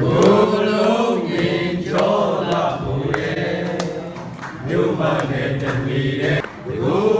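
Chant-like singing, long sliding vocal lines over a steady low drone, with a few sharp clicks.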